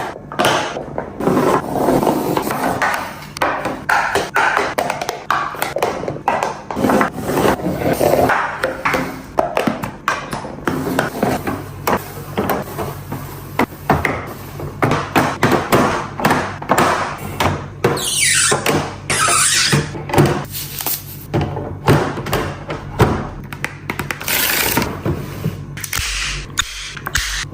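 Food packages and plastic containers handled and set down in a fridge, with many quick knocks, taps and thunks and rustling of packaging between them, and a swishing sweep falling in pitch about two-thirds of the way through.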